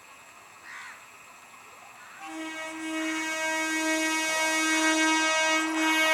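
Horn of an approaching EMU train, a long pitched tone that starts about two seconds in, breaks briefly now and then, and grows steadily louder.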